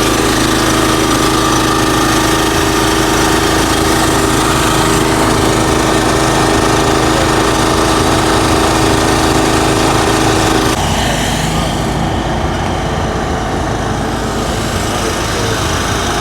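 An engine running steadily at close range, with a steady hum. It turns a little quieter and duller about eleven seconds in.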